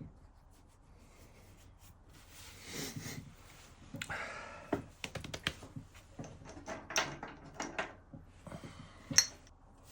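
Metal engine parts and hand tools being handled on a workbench: scattered light clinks and knocks with some rubbing, after a quiet first couple of seconds, and a sharp clack about nine seconds in.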